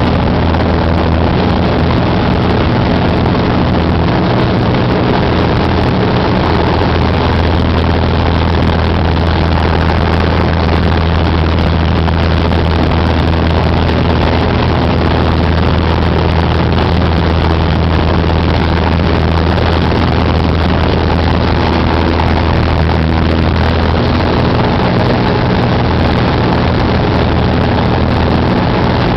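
Cessna 188 AgTruck's piston engine and propeller running at a steady, loud drone. The low hum eases slightly a few seconds before the end.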